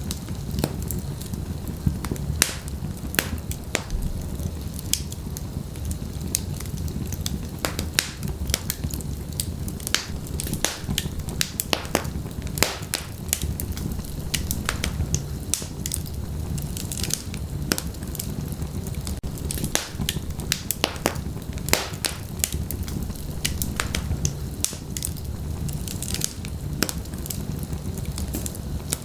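Wood fire crackling in a fireplace: burning logs give frequent irregular sharp pops and snaps over a steady low rumble of flame.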